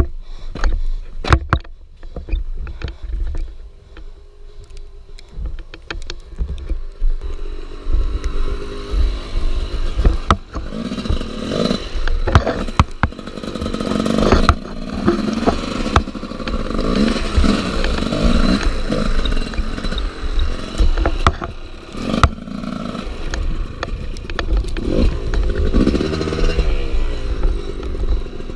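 Dirt bike engine revving hard and dropping back, over and over, with sharp knocks and clatter. The engine is quieter for the first several seconds, then climbs and falls in pitch from about eight seconds in.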